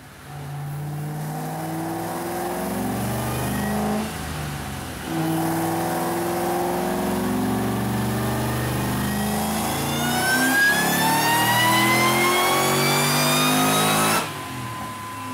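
2007 Shelby GT500's supercharged 5.4-litre V8 with a VMP TVS supercharger making a full-throttle pull on a chassis dyno. The engine revs climb, with an upshift about four seconds in. Over the last few seconds a high supercharger whine rises in pitch, then the throttle closes suddenly near the end, leaving a fading whine as it coasts down.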